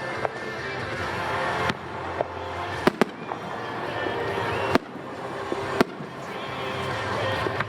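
Aerial fireworks bursting during a fireworks show: sharp bangs, a quick pair about three seconds in, then single ones near five and six seconds. Music plays throughout.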